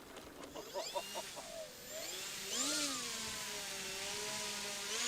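Electric motor of an Arrows Sky Cruiser RC plane whining. Its pitch swoops up and down about halfway through as the throttle changes, then holds steady, with a few short wavering sounds in the first second or so.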